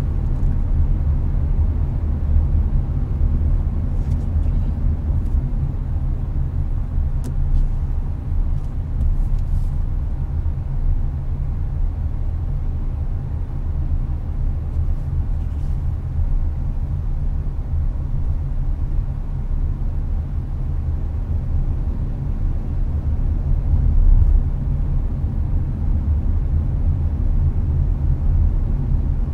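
Hyundai Avante cruising on a highway, heard from inside the cabin: a steady low road-and-engine rumble with the air conditioner blowing. A few faint clicks come in the first third.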